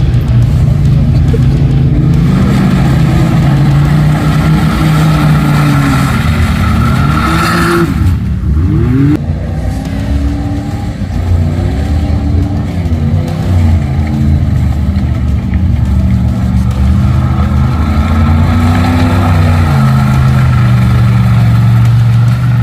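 Mud truck engine revving hard, its pitch climbing and falling again and again, with a brief let-off and a quick swing in revs about eight seconds in.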